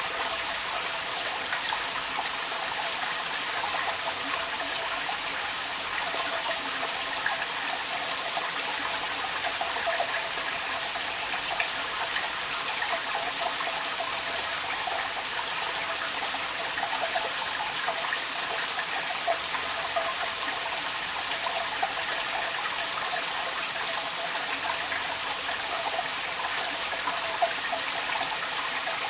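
Rainwater pouring steadily from a downpipe, with rain pattering and the odd sharper drip or splash.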